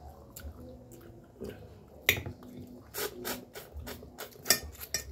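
Eating sounds close to the microphone: chewing and sharp mouth clicks and smacks, coming thickest and loudest from about two seconds in.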